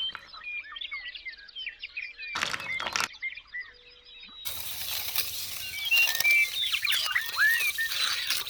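Small birds chirping in many quick, short calls. A loud hiss of noise joins about halfway through, and the sound cuts abruptly in and out twice.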